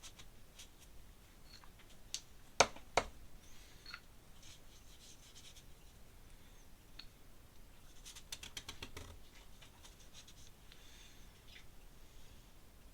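Faint scratching and rubbing of an ink pen and brush on paper as strokes are laid down. There are two sharp knocks about two and a half and three seconds in, and a quick run of ticks about eight seconds in.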